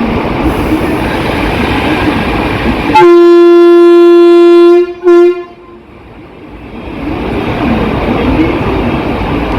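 Train running with steady rumbling noise, then about three seconds in a loud single-pitched train horn blast of nearly two seconds, followed at once by a short second toot. The running noise drops away after the horn and builds again near the end.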